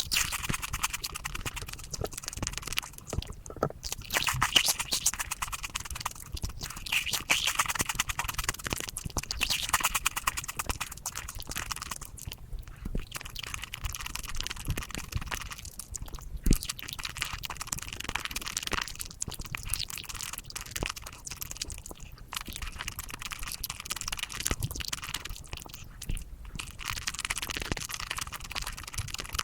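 Close-miked mukbang eating sounds of chocolate sped up about fivefold: a dense, rapid crackle of chewing, crunching and mouth clicks.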